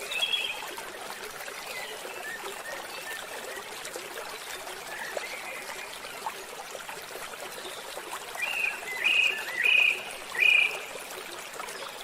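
Waterfall water running steadily. A bird calls briefly at the start, then gives four short calls in a row near the end.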